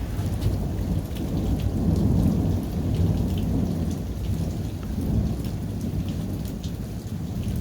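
Thunder from a thundersnow storm: a long low rumble that swells about two seconds in and keeps rolling, with faint scattered ticks of falling wet snow.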